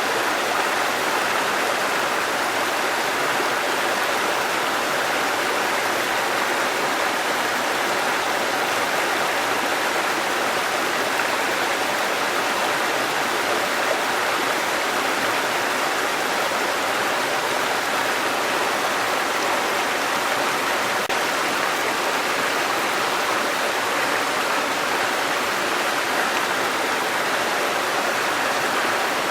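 Small waterfall with running water, a steady even rush that does not change.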